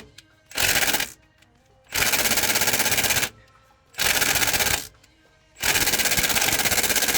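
Small impact gun hammering in repeated bursts on tight pulley bolts that do not break loose: the gun is too weak for bolts torqued this hard. The bursts come four times in quick succession, each a fast even rattle.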